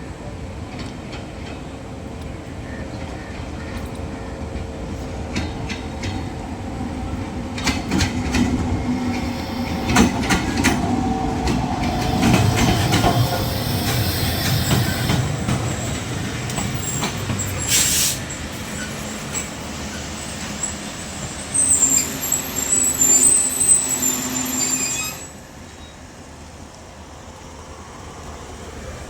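Passenger train running into the station, its wheels clacking over the rail joints and growing louder. High-pitched wheel and brake squeal comes near the end as it slows, then the noise drops off suddenly.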